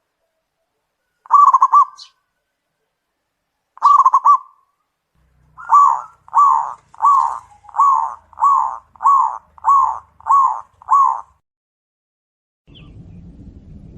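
Zebra dove (perkutut) cooing: two short rolling coo phrases, then a run of nine evenly spaced coos, a little under two a second. A steady low hiss begins near the end.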